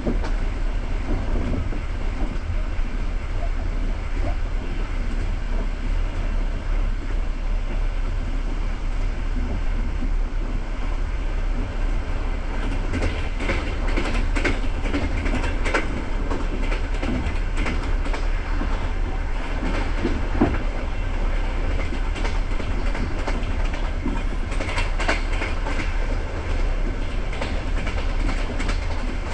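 Passenger train carriage rolling along the track, heard from inside at the window: a steady rumble with clusters of clacks from the wheels over rail joints, around the middle and again near the end.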